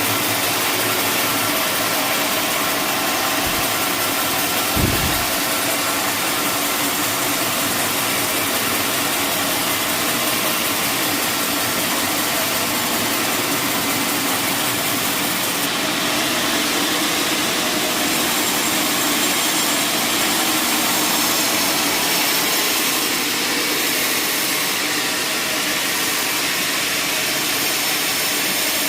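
Sawmill machinery running steadily, a loud even noise throughout, with a single short knock about five seconds in.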